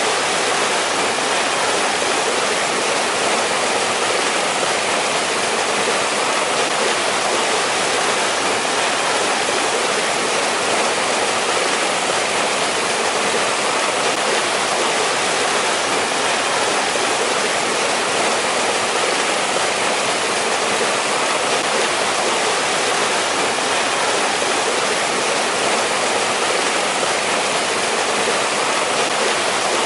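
Valley stream flowing over rocks: a steady, unbroken rush of water, strongest in the mid and high range.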